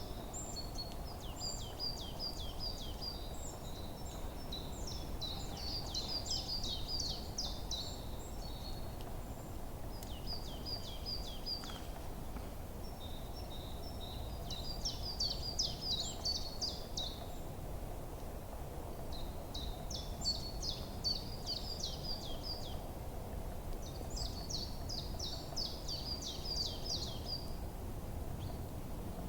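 Forest songbirds singing: bouts of rapid, high chirping phrases a few seconds long, repeated about every five seconds, over a steady low background noise.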